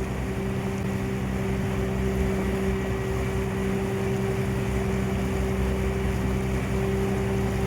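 Steady engine drone of the S.S. Moyie sternwheeler ferry under way, heard on board: an even low rumble with a constant hum that does not change.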